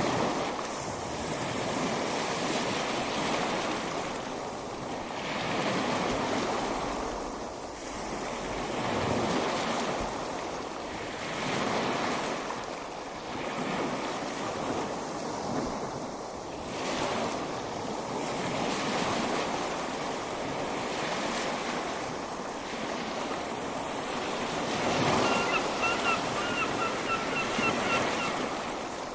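Ocean surf breaking and washing on a beach, swelling and ebbing every few seconds. Near the end a faint run of short, high chirps sounds over the surf.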